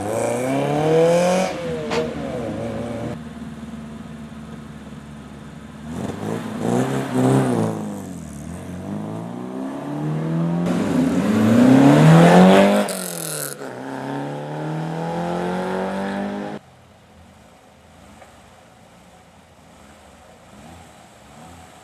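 Hill-climb race car accelerating hard, its engine note climbing and dropping back at each of several quick upshifts, loudest as it passes about 12 seconds in. The engine sound cuts off abruptly near 17 seconds, leaving only faint background.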